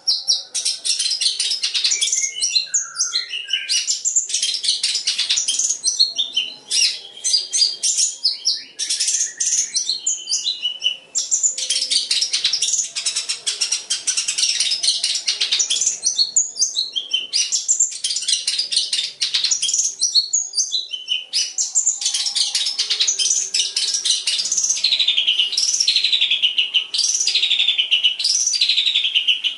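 Long-tailed shrike (cendet) singing a fast, unbroken song of chattering phrases and mimicked calls, ending in a run of repeated falling whistles about once a second.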